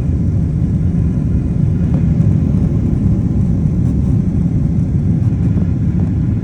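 Boeing 767-400ER's jet engines and rushing air heard from inside the passenger cabin during takeoff: a steady, heavy, deep rumble.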